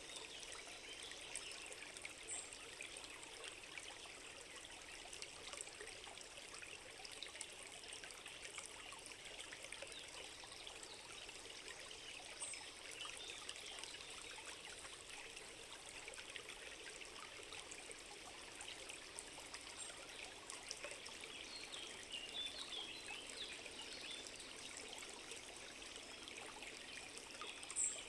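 A small forest stream trickling and babbling steadily, with a few brief high chirps now and then, the last and loudest near the end.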